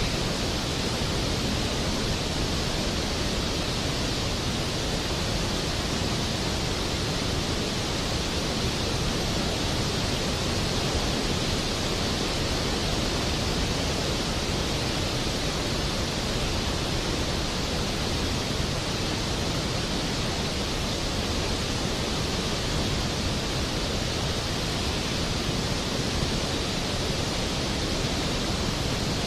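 Steady rain, an even hiss with no breaks or rises.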